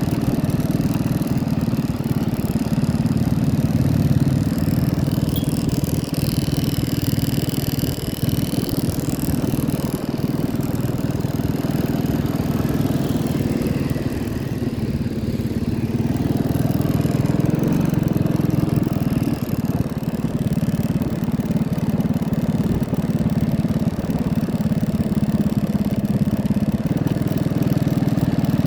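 Tractor engine running steadily, its pitch shifting slightly up and down.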